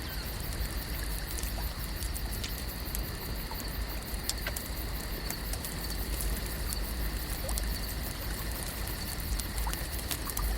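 Lakeside ambience: water trickling and lapping over a steady low rumble, with scattered small clicks and a faint steady high hum.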